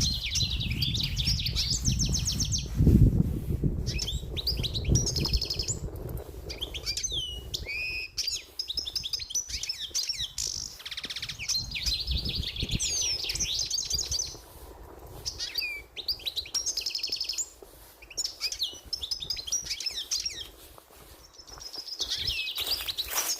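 Small songbirds singing: rapid twittering phrases and trills, several songs overlapping with short gaps between them. A low rumble sits under the song for the first six seconds, with a loud bump about three seconds in.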